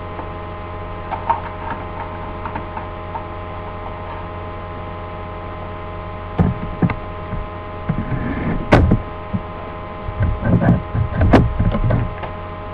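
Steady electrical mains hum throughout, with knocks and rattles of objects being handled in the second half, the loudest a sharp knock about three quarters of the way through.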